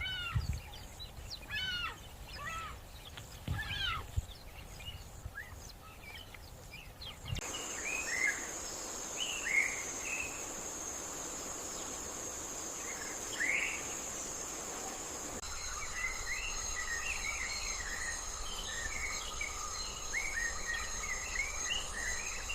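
Wild outdoor ambience of bird calls and insects: scattered short chirping calls at first, then from about seven seconds in a steady high insect buzz with bird calls over it, the chirping growing busier in the second half. The background shifts abruptly twice.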